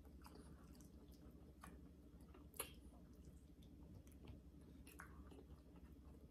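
Faint chewing of soft roast pork, with scattered small clicks and one sharper click about two and a half seconds in, over a low steady hum.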